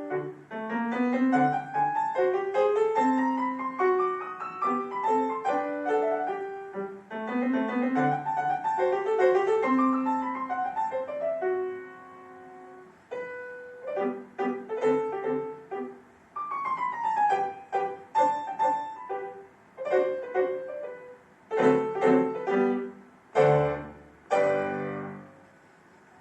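Solo acoustic piano playing classical music: quick running scales and broken figures, a brief quiet held note, then detached notes and a falling run. It closes with several loud, separate chords, one with a deep bass note, that ring out and end the passage.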